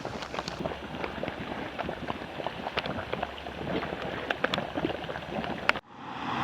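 Geothermal hot pool bubbling, with a dense, irregular patter of small pops and gurgles. It cuts off abruptly near the end, and a steady rushing noise rises in its place.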